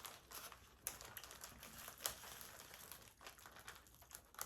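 Faint crinkling of food packaging, such as a chip bag or wrapper being handled, with a few sharper crackles.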